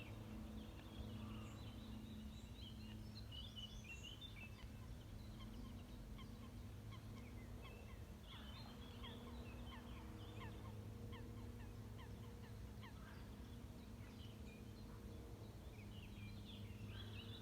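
Faint birdsong: many short chirps and quick falling whistles from several small birds, over a low steady hum.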